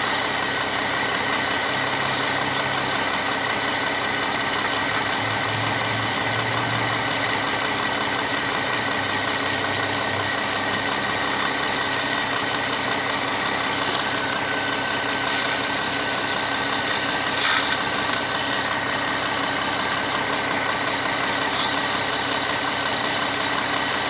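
Car engine idling steadily while water is misted from a hand spray bottle into its open air intake to steam out carbon deposits. Several brief spray hisses come and go over the engine sound.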